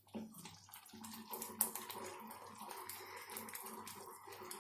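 Faint wet stirring of thick chana dal halwa in a pan: a ladle scraping and squelching through the sugary paste, with many soft clicks.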